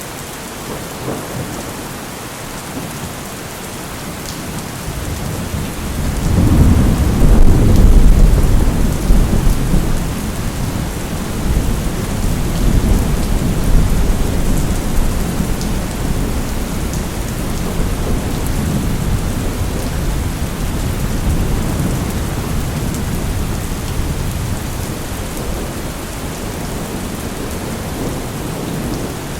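Steady heavy rain with a long roll of thunder: the deep rumble swells about six seconds in, peaks a couple of seconds later, then slowly fades back under the rain.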